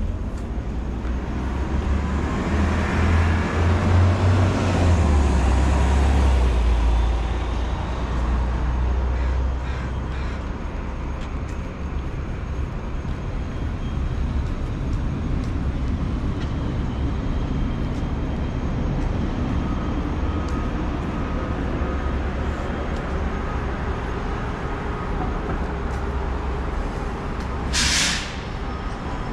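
Street traffic: a heavy vehicle passes with a loud, low engine rumble that swells over the first several seconds, then steady traffic noise carries on; near the end a short sharp hiss, like an air brake releasing, lasts about half a second.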